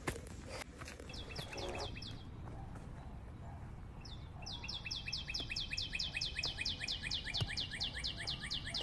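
A bird calling: a fast run of short, high notes, each dipping slightly in pitch, about seven a second. A brief burst about a second in, then a longer unbroken run from about halfway through.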